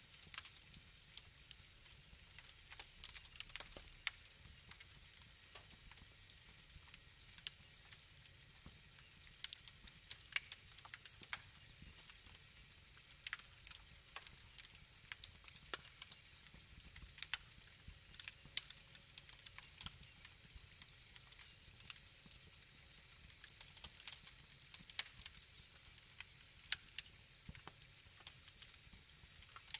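Wood fire crackling, faint, with frequent irregular small pops and snaps.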